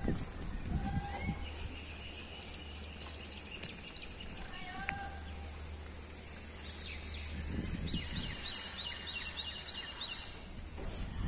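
Birds calling: scattered short whistled chirps and glides, then a rapid run of repeated chirps, about four a second, in the last third, over a steady low rumble.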